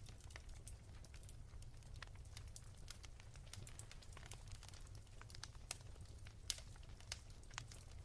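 Wood fire crackling softly: irregular small pops and snaps over a low steady rumble, with a sharper pop about six and a half seconds in.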